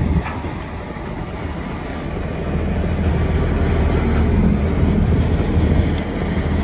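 Semi truck's diesel engine idling with a steady low rumble, growing a little louder a couple of seconds in.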